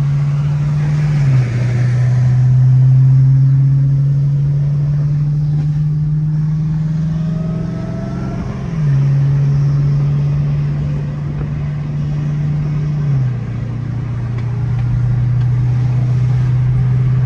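Car engine droning at a steady cruise. Its pitch steps down about a second in, creeps slowly up, jumps up near the middle and steps down again later.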